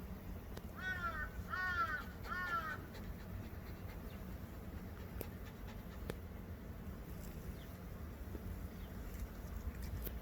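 Crow cawing three times in quick succession about a second in, followed by a low steady background hum.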